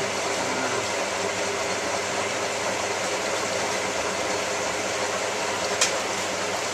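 Hotpoint 9534A washing machine running steadily partway through a Cotton 85 descaling wash, a continuous whirring noise with a single sharp click near the end.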